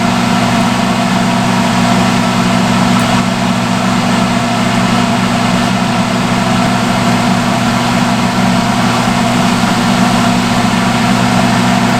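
Salon hood hair dryer running: its blower gives a loud, steady hum with an even rush of air.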